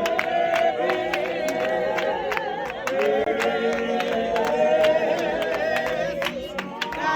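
Many voices singing together over a steady beat of sharp, evenly spaced hits.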